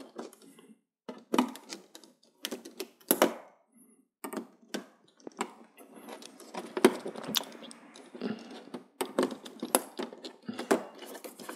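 Irregular clicks, taps and light knocks of plastic parts being handled and pried loose as an LED TV's panel assembly is taken apart, with some softer rustling between them.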